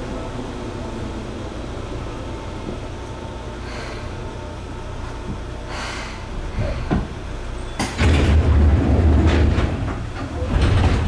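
Interior of a Seibu 2000 series commuter train car: a steady low rumble with a few short air hisses, then about eight seconds in the passenger doors open with a sudden loud burst and heavy rumble, and another loud burst follows near the end.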